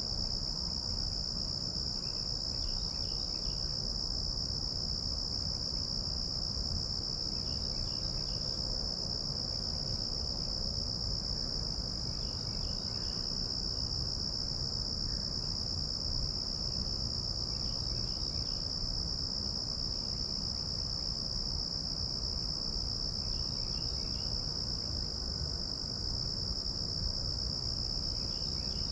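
A steady, high-pitched chorus of insects trilling without a break, with faint short chirps recurring about every five seconds beneath it.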